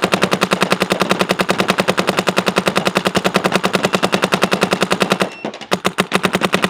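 Shocker ERA paintball marker firing on full auto, a rapid, even stream of shots that pauses briefly about five seconds in and then starts again.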